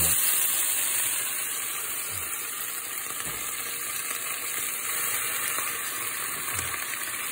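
Fresh spinach leaves sizzling steadily in hot oil in a frying pan, just after being dropped in to sauté.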